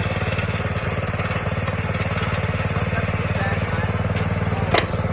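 1970 Sears 10XL garden tractor's engine running steadily with a fast, even beat, and a single sharp clack near the end.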